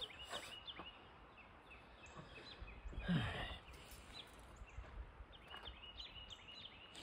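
Faint, high chirps of small birds in quick runs, near the start and again near the end, over quiet outdoor background. There is a brief louder sound about three seconds in.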